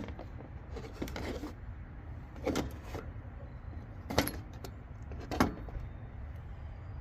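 A few sharp clinks and knocks from metal car parts being handled: the old and new serpentine belt tensioner pulley assemblies. The loudest come about four and five and a half seconds in.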